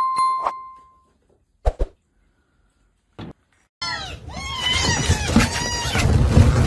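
A short bell-like ding at the start, then after a couple of faint clicks many young kittens mewing at once in a dense, overlapping chorus of high cries.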